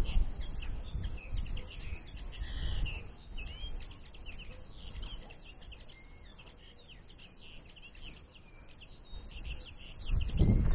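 Common linnets twittering: a continuous run of quick, short chirps. A low rumble sounds near the start and again near the end.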